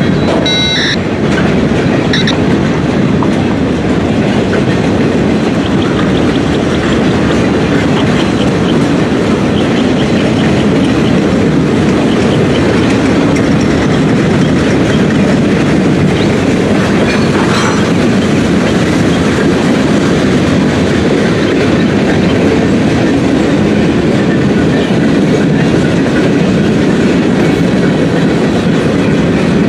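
Freight train cars rolling past, a steady rumble and clatter of steel wheels on the rails. There are brief high wheel squeals about a second in and again near two seconds.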